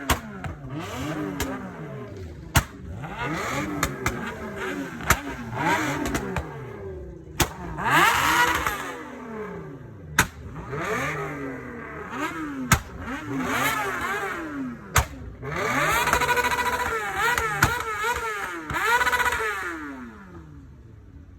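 Car engines revving up and down again and again, with several sharp cracks between the revs.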